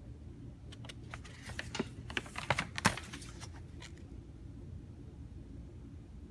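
A quick run of light clicks and rustling handling noise for about two seconds, over a steady low hum.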